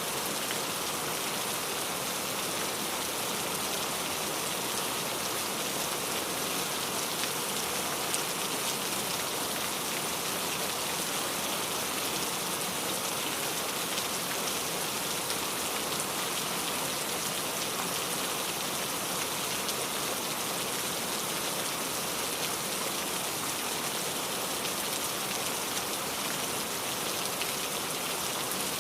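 Steady rain falling, a continuous even hiss of many drops with faint individual drop ticks.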